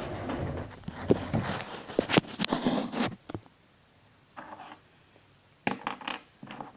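Close handling of small plastic toys, a Littlest Pet Shop figure and tiny toy headphones: rustling and scraping with sharp clicks for about three seconds, then mostly quiet with a few faint brief sounds.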